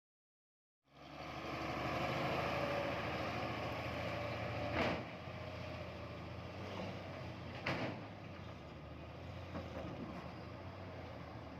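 Heavily loaded truck's diesel engine running steadily, starting about a second in, with two sharp loud clanks about five and eight seconds in and a fainter one near the end.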